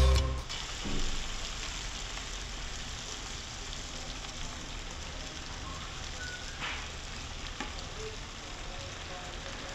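Background music cuts off just after the start. Then a chicken and tomato masala sizzles steadily in a nonstick wok, with a few faint knocks near the end as the fried brinjal is tipped in.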